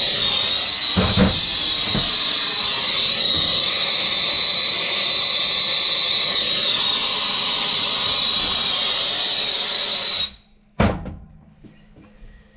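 Plumber's gas torch burning with a steady hiss and a thin high whistle while heating a pipe fitting. The flame shuts off suddenly about ten seconds in, followed by a single sharp knock.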